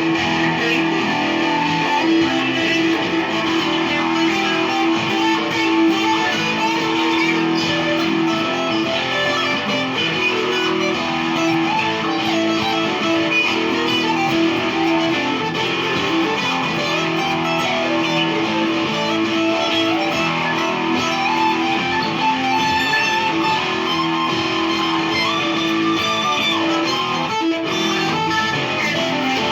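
Electric guitar riff played through a chain of EarthQuaker Devices pedals: The Warden compressor, Arrows boost, Cloven Hoof fuzz, Sea Machine chorus and Spatial Delivery envelope filter. The notes ring on and overlap, with a steady low note held under most of the riff.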